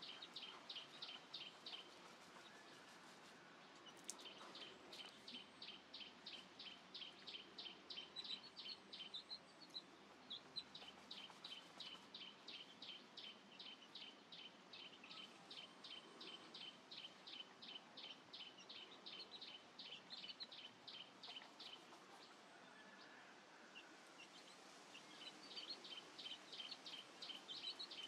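Faint bird calling: long runs of short, high chirps repeated about four times a second, pausing briefly twice, over quiet outdoor background noise.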